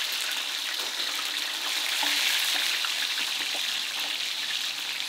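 Food frying in hot oil: a steady sizzle with small crackles.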